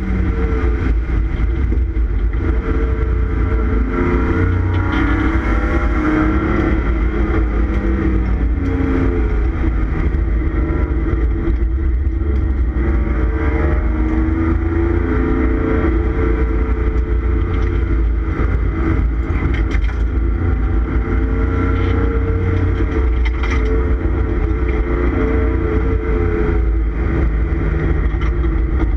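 1989 Ford Taurus SHO's 3.0-litre Yamaha V6 heard from inside the stripped race cabin while lapping a track, its pitch rising and falling again and again with throttle, over a heavy low rumble.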